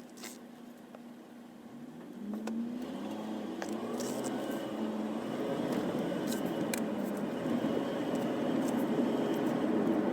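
A vehicle engine speeding up about two seconds in, followed by a rushing noise that grows steadily louder, with a few sharp ticks scattered through it.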